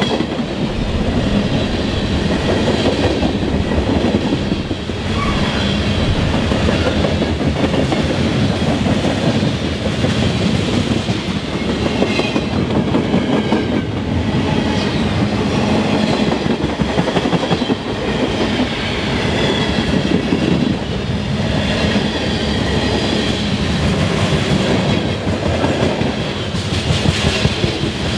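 Freight train cars (tank cars and boxcars) rolling past close by: a steady rumble of steel wheels on rail with a rapid clickety-clack of the wheel trucks passing over rail joints.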